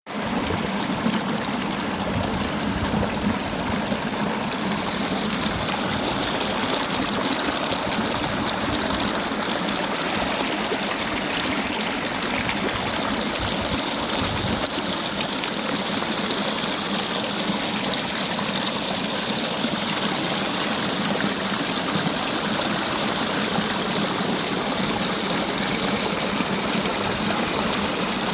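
Mountain stream flowing into natural rock pools: a steady, even rush of water.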